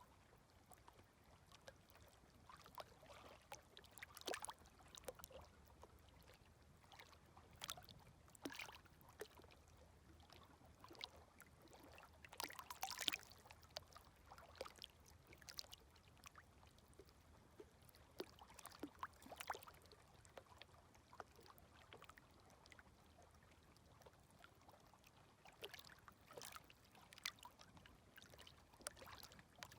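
Faint, gentle small waves lapping at the water's edge: irregular little splashes and trickles, one a little stronger about halfway through.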